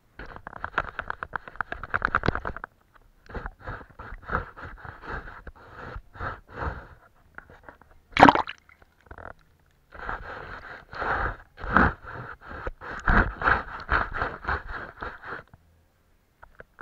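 Paintbrush scratching rapidly back and forth over paper in bursts of many quick strokes, with a sharp tap about eight seconds in.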